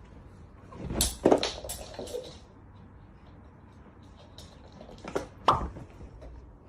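A few sharp knocks and clatters in two clusters, the first and loudest about a second in, the second a little after five seconds in.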